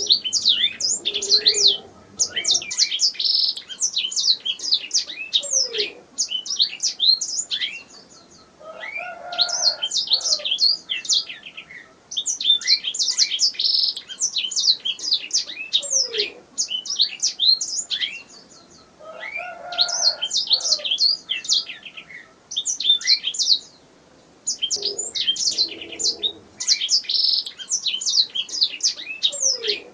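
Domestic canary singing: long phrases of rapid chirps and trills, with brief pauses between phrases.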